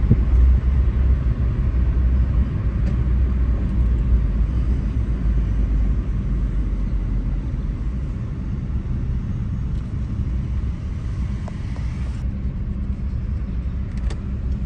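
Volkswagen Polo being driven: a steady low rumble of engine and road noise, a little louder in the first half.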